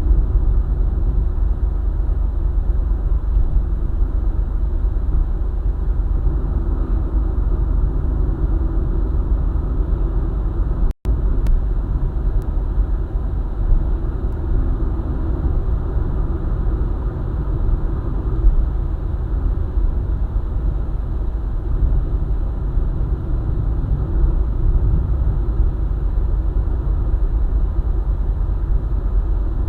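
Car driving at highway speed: a steady low rumble of tyres, engine and road noise, with a split-second break about eleven seconds in.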